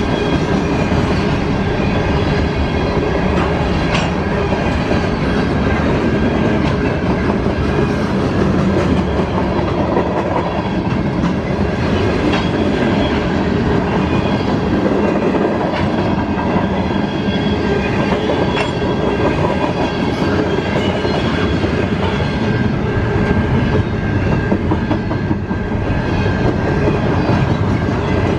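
CSX mixed freight train rolling past, its cars' steel wheels clattering over the rail joints with a steady rumble. A faint, steady high squeal from the wheels runs under it.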